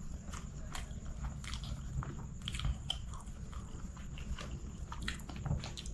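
Close-miked chewing of a mouthful of chicken biryani, with irregular small wet mouth clicks over a steady low hum.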